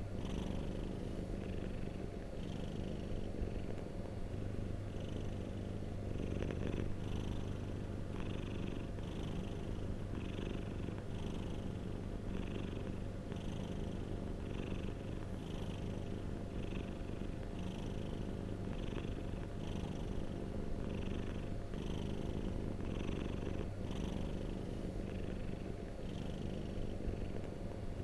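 Domestic cat purring steadily, with an even, regular pulse of breaths a little more than once a second.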